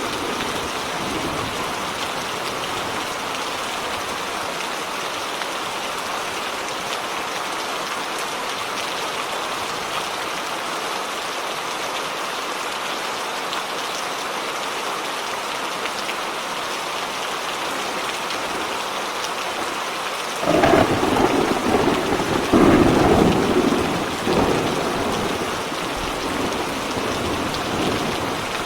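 Steady heavy rain hissing, with a rumble of thunder breaking in about two-thirds of the way through, peaking over a few seconds and then fading back under the rain.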